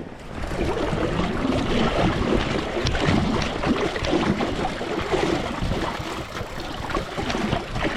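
River water splashing and sloshing around a small inflatable fishing raft, an irregular wash of small splashes that swells about half a second in.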